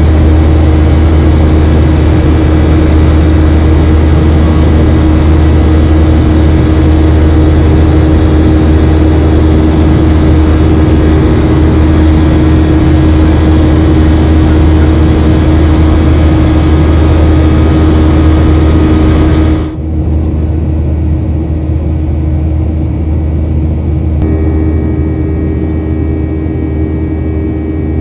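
Boeing 737-800's CFM56 jet engines and airflow heard inside the cabin: a loud, steady drone with a low hum and a few steady tones. About two-thirds of the way through it suddenly turns quieter and duller, then runs on.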